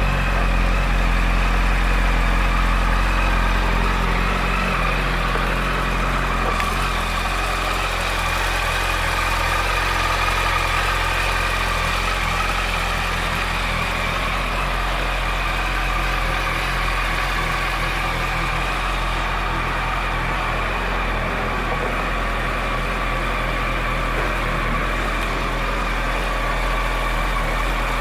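2008 Yamaha YZF-R1's inline-four engine idling steadily, with no revving.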